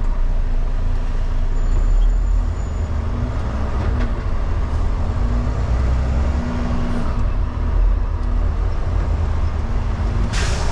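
Semi truck's diesel engine running with a steady low rumble, with a short hiss near the end.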